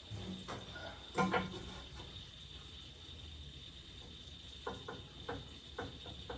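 Handling noise at a workbench: a few light knocks, the loudest about a second in, then a run of quick clicks near the end, over a faint steady high-pitched whine.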